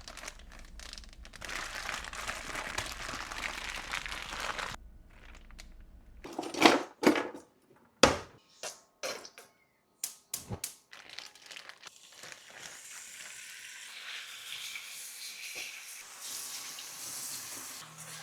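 Plastic zip-top bag of chicken and marinade crinkling as it is shaken and squeezed, then a few sharp knocks, then a steady hiss of chicken sizzling in a pan.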